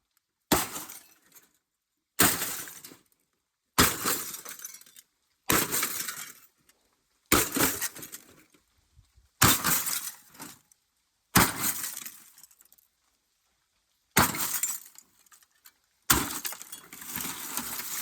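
Glass being smashed with repeated blows: nine sharp strikes about two seconds apart, each followed by breaking glass settling and tinkling.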